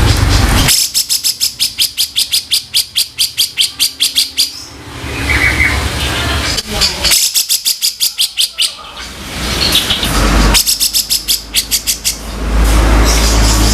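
Cucak jenggot (brown-cheeked bulbul) giving harsh rattling calls: three runs of rapid clicking notes, each lasting one to four seconds, with a low rumbling noise in the gaps between them.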